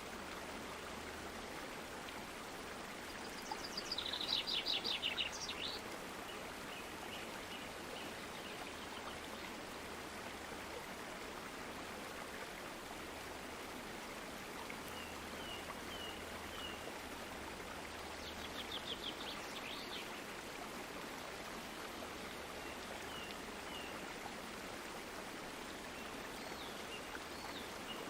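Steady rush of running stream water, with birds singing over it: a loud rapid trill about four seconds in, another about eighteen seconds in, and short chirps in between.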